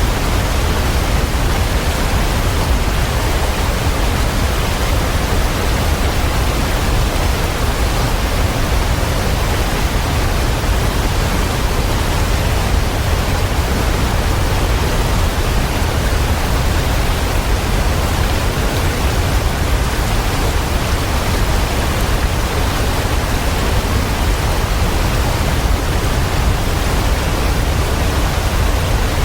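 Waterfall: a steady, unbroken rush of falling water, strongest in the low rumble.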